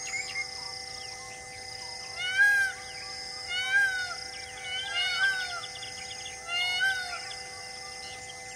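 A bird calls loudly four times, each call a short clear note that rises and falls, about one and a half seconds apart, over a steady held drone.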